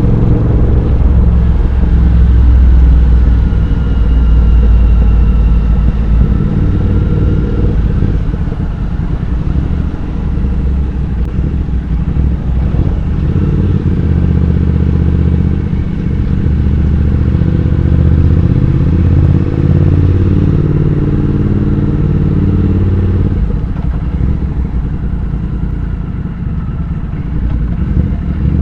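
Triumph Speed Twin 1200's parallel-twin engine and exhaust on the move, with the engine note rising and falling as the throttle and gears change.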